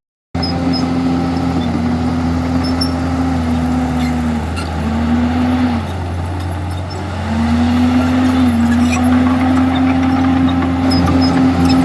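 Komatsu D51EX crawler bulldozer's diesel engine running hard under load, its pitch sagging twice around the middle and then recovering. Faint scattered clicks and knocks sound over it.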